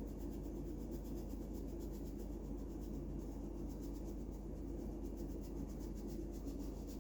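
Paintbrush stroking paint onto a wall: a soft, fast, even scratching of bristles over a low steady hum.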